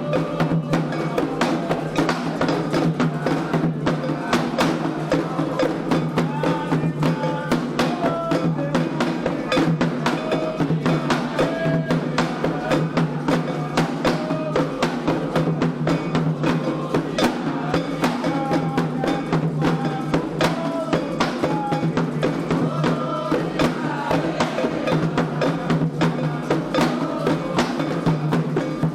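Candomblé ritual music: atabaque hand drums beating a fast, steady rhythm with a struck bell part, under call-and-response group singing.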